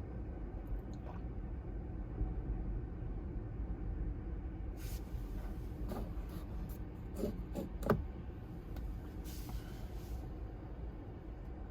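Steady low rumble of typhoon surf and wind at the shore, with a few brief clicks and faint short sounds about halfway through.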